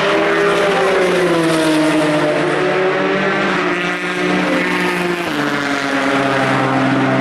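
Endurance race car engines running, the engine note falling slowly in pitch, then settling to a new, steadier note about five seconds in.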